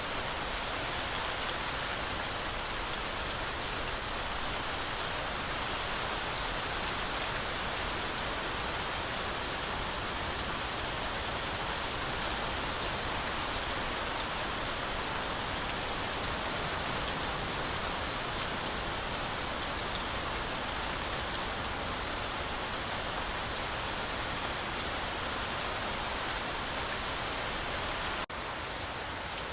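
Heavy rain falling steadily through a forest canopy, a dense even hiss of countless drops. Near the end it dips for a moment, then carries on slightly quieter.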